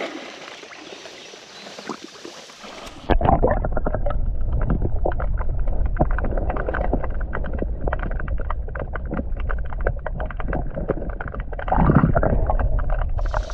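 Faint creek ambience, then about three seconds in an abrupt switch to loud, muffled churning water noise: a deep rumble full of small clicks and knocks, which swells near the end and cuts off sharply.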